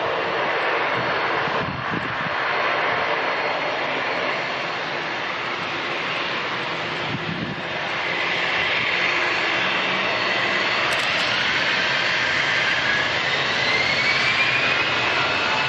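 Jet airliner's turbofan engines running with a steady rush of noise; about halfway through a whine rises in pitch as the engines spool up.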